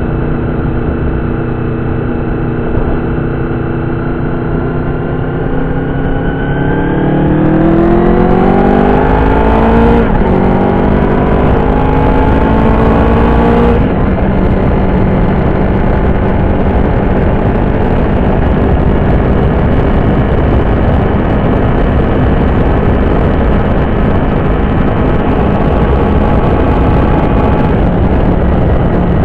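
Honda VFR750's 748 cc V4 engine running steadily, then revving up as the bike accelerates. The pitch climbs, drops briefly at a gear change about ten seconds in, climbs again and drops at another upshift around fourteen seconds in. It then holds a steady cruise under a loud rush of wind and road noise.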